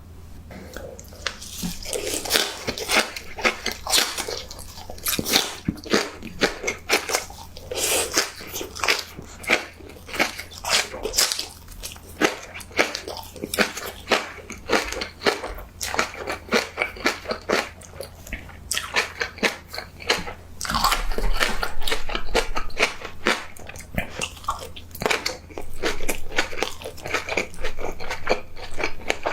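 Close-miked eating: biting into and chewing crunchy food, a dense irregular run of sharp crunches and crackles with softer wet mouth sounds in between.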